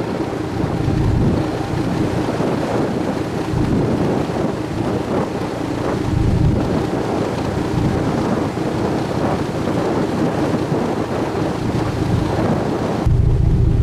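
Wind buffeting the microphone on the deck of a sightseeing boat under way, over the steady hum of its engine and the rush of sea water. Near the end the sound cuts suddenly to a smoother, steady low engine drone.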